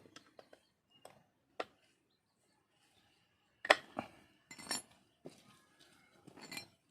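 Scattered sharp metal clinks and taps of tools and small parts being handled, about ten in all at uneven spacing, the loudest a little past halfway.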